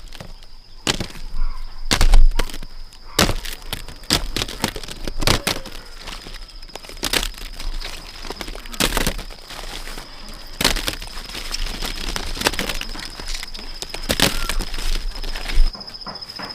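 Repeated sharp cracks and snaps, roughly one every second or so, with rustling between them. The likeliest source is dry corn ears being snapped off the stalks during harvest.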